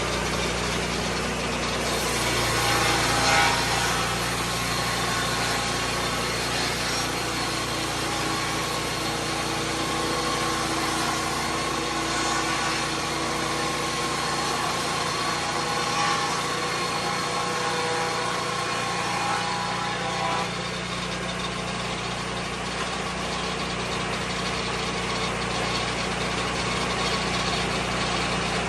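Lucas Mill sawmill's petrol engine running steadily, with some higher tones coming and going over the middle of the stretch.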